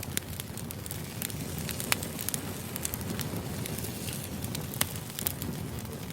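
Wood fire burning, a steady low rumble and hiss with sharp crackles and pops of the burning logs at irregular moments.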